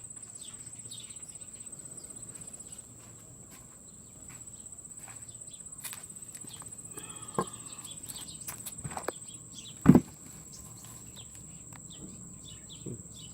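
Outdoor ambience with a steady, high-pitched insect trill, a few short bird chirps, and scattered light knocks. The loudest sound is a single dull thump about ten seconds in.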